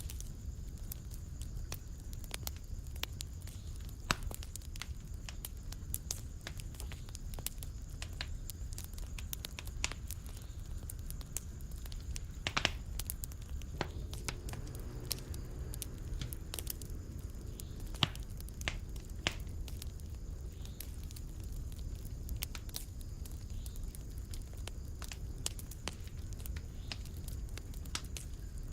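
Fireplace fire crackling: irregular sharp pops and snaps over a steady low rumble of the flames, with a few louder pops now and then.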